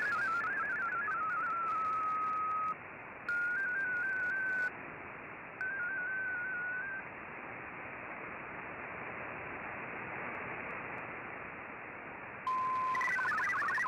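MFSK digital-mode data tones from a shortwave broadcast, played through an Icom IC-R8600 receiver: a warbling run of stepping tones ends about two seconds in, two short bursts of stepping tones follow, then several seconds of band-limited static hiss. Near the end a steady tone sounds briefly before the stepping tones start again.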